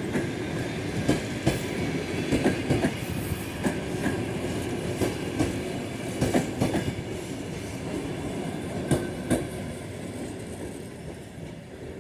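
A passenger train rolling past, its wheels clicking in groups over the rail joints over a steady rumble, getting quieter near the end.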